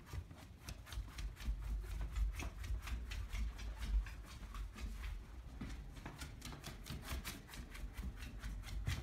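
A dog's claws clicking quickly on a hard floor as it trots off, several clicks a second, with low bumps underneath.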